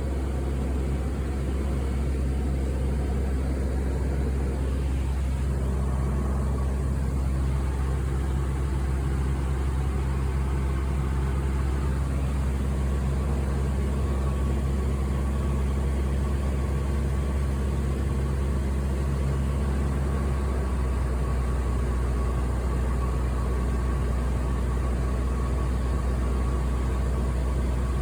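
Steady engine drone and air noise inside an airliner cabin: a deep, even hum with several steady tones above it and no breaks.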